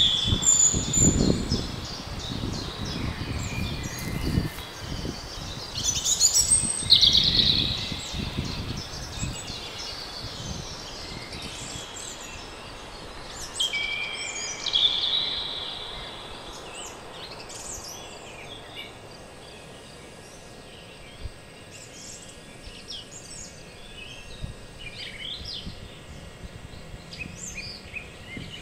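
Several wild songbirds singing and calling, with short trills and chirps that are loudest about seven and fifteen seconds in. Under them is a low, gusting rumble that fades out within the first ten seconds or so, leaving a faint steady outdoor hum.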